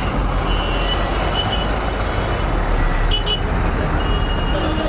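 Steady road traffic and vehicle engine noise, with a short double beep about three seconds in.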